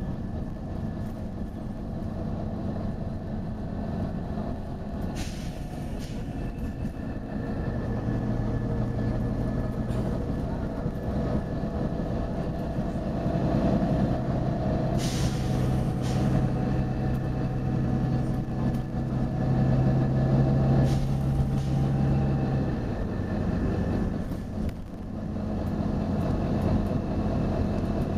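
Volvo B9TL bus's six-cylinder diesel engine running, its drone rising about a quarter of the way in and easing back near the end, with three short bursts of compressed-air hiss from the bus's air system, the loudest about halfway through.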